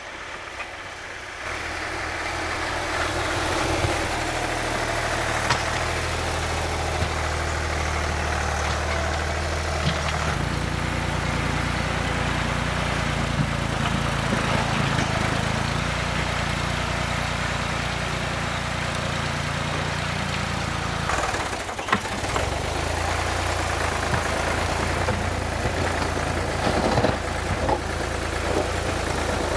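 Ford tractor engine running steadily while plowing. It gets louder about a second and a half in, changes engine speed about a third of the way through and drops off briefly two-thirds of the way in. A few sharp knocks come near the end.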